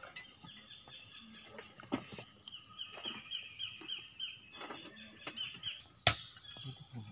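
A bird sings a long run of quick, high chirps over a few faint clicks of metal parts being handled. About six seconds in there is a single sharp hammer knock, the loudest sound.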